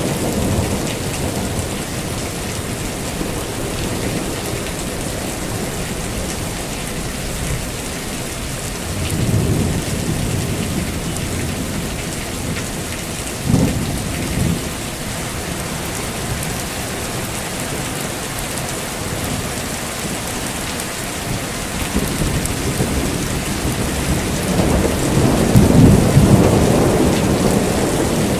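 Heavy steady rain with thunder: a low rumble about a third of the way in, a short sharp thunderclap about halfway, and a longer, louder rolling rumble near the end.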